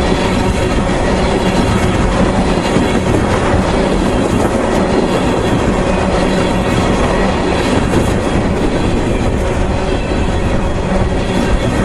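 Freight train of tank cars rolling past, a steady rumble of wheels on rail with clickety-clack from the rail joints.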